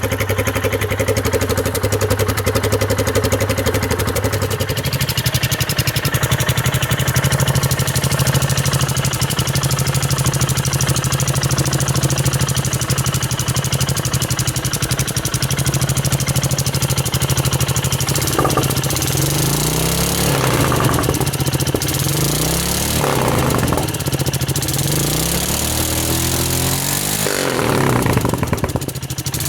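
Royal Enfield Himalayan single-cylinder engine running through an aftermarket performance exhaust. It idles steadily, the idle steps up slightly about five seconds in, and in the last third the throttle is blipped four or five times, each rev rising and falling back.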